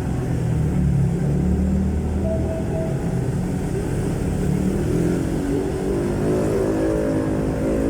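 A jeepney's Isuzu 4BC1 four-cylinder diesel engine running under way through a very loud aftermarket muffler. The engine note is steady and heavy at first, then its pitch shifts up and down in the second half as the revs change.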